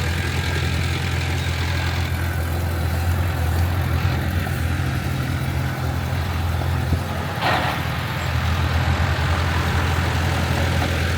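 Heavy diesel engine of earthmoving equipment running steadily with a low drone. A short burst of noise comes about seven seconds in.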